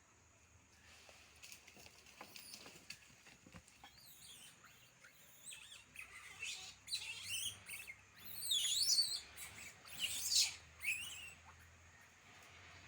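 High-pitched animal chirps and squeaks: a series of quick, wavering calls that rise and fall in pitch. They start about halfway through and are loudest shortly before the end.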